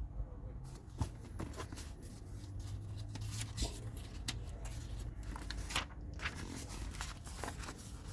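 Paper pages being handled and turned, with a run of short rustles, crinkles and light scrapes over a low steady hum.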